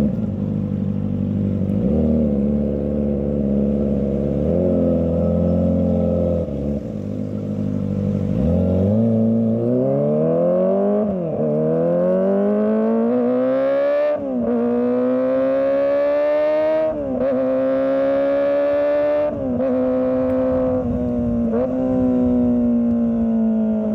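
Kawasaki ZX25R's 250 cc inline-four engine running at low revs with small throttle blips, then accelerating hard about eight seconds in. It climbs through several gears, each rising howl cut by a brief dip at the shift, and then settles to a steady cruise.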